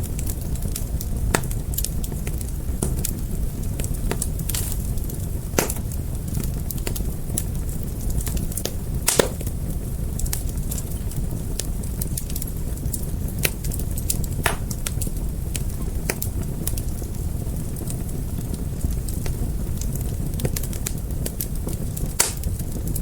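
Fire burning with a steady low rumble and irregular sharp crackling pops, the loudest about a third of the way in and again near the end.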